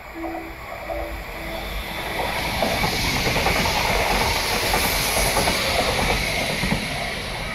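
Passenger train passing: the rush of wheels on rails and air swells about two seconds in and stays loud, easing slightly near the end. A few faint, short repeated tones sound at the start.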